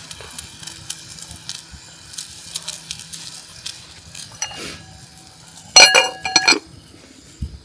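Metal cookware clinking, then a few quick, loud ringing clanks of a pot and lid near the end, as a hot pot is handled over the fire.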